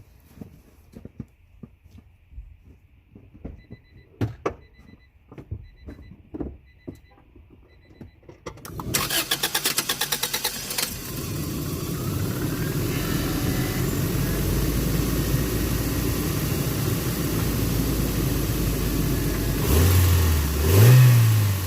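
Clicks and knocks with a few faint beeps, then an Acura Integra's starter cranks for about two seconds before the engine catches and runs steadily. Near the end the engine speed rises twice. The car is being started to check a random hard-start and idle problem.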